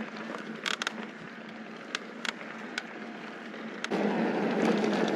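Mountain bike rolling over a loose dirt and gravel trail, with scattered sharp clicks and rattles from the bike. The rolling noise grows clearly louder about four seconds in.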